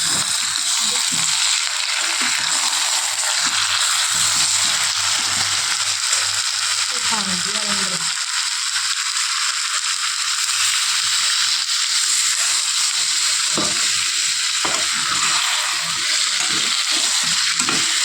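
Food frying in hot oil in a pan: a steady, loud sizzle that carries on without a break.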